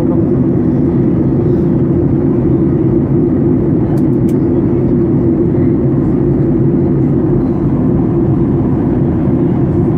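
Steady low rumble of an airliner's engines and airflow heard inside the passenger cabin, with two faint clicks about four seconds in.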